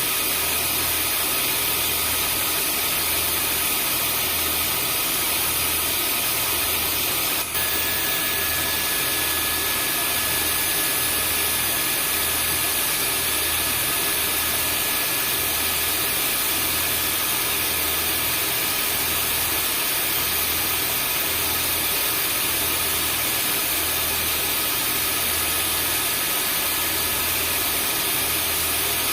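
Vacuum cleaner motor running steadily: an even rushing hiss with a high whine and a slow low throb underneath. About seven and a half seconds in there is a brief click and dip, after which the whine's pitch shifts slightly.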